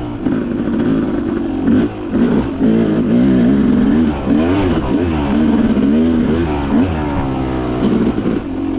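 Dirt bike engine revving up and down repeatedly as it is ridden over rough trail, its pitch rising and falling with the throttle and gear changes.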